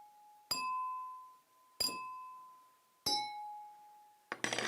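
A hard, resonant object struck three times, about a second and a quarter apart, each strike ringing out with a clear tone for about a second. The pitch differs slightly between strikes, and a quick flurry of taps follows near the end.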